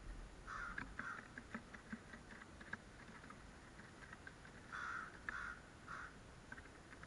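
Crows cawing: two caws about half a second in, then three more starting near five seconds, with faint scattered ticks between.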